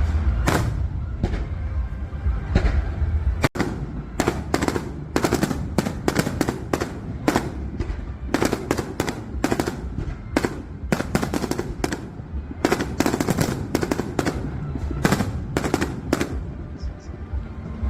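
Fireworks going off in rapid succession: a dense string of sharp bangs and crackles, several a second, over a low rumble.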